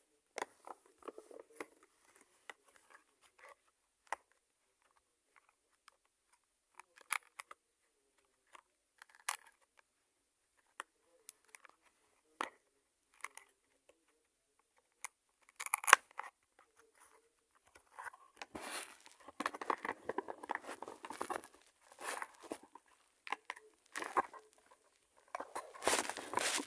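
Packaging being handled and torn open: scattered clicks and crinkles, turning into denser, continuous rustling and tearing in the last third.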